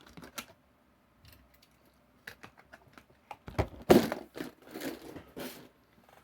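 Die-cast toy trucks being handled: scattered small clicks, taps and rustling, with a louder clatter and rustle about four seconds in.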